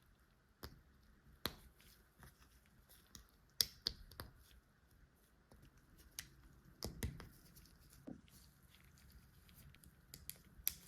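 Plastic LEGO pieces being handled and pressed together: scattered sharp clicks and light taps, the loudest about three and a half seconds in.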